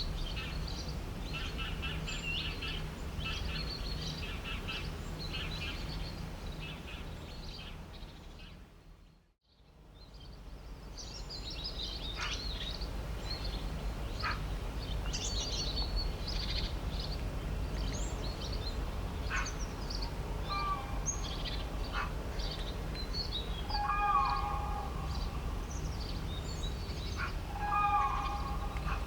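Birds chirping and singing over a steady low background rumble. The sound fades out and back in about nine seconds in, and later a louder call with several held tones comes three times.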